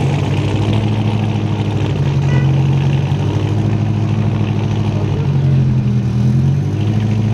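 Car engine idling steadily, its pitch wavering slightly up and down: a race car warming up.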